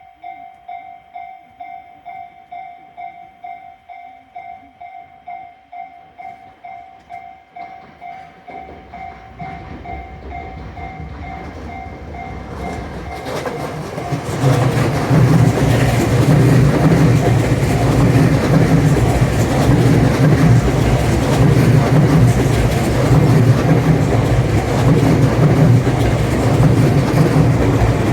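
A Japanese level-crossing alarm rings in a steady two-tone pulse about twice a second. A Tobu Tojo Line electric train approaches, growing louder, and from about halfway in passes over the crossing loudly, its wheels clattering rhythmically over the rail joints.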